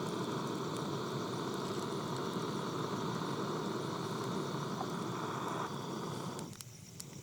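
Battery-powered mini handheld blower running with a steady whir, cutting off abruptly about six and a half seconds in.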